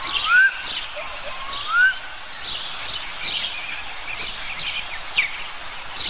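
Wild birds singing: a clear whistle that slides upward, heard twice about a second and a half apart, over a busy chorus of short, high chirps.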